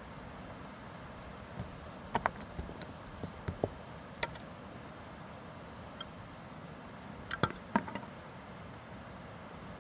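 A series of short, sharp knocks and taps, coming in two irregular clusters, over a steady background hiss.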